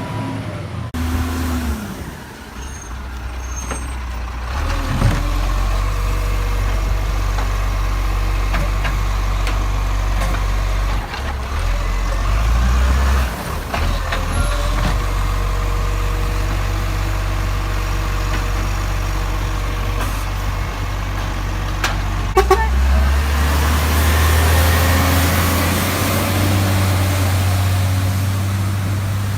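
Garbage truck engine running, its pitch stepping up and down several times, with a sharp clank about three quarters of the way through after which the engine runs louder.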